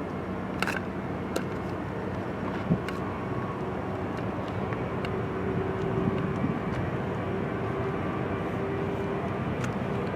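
Jet airliner engines running steadily, with a thin whine that grows a little stronger partway through, and a few faint clicks.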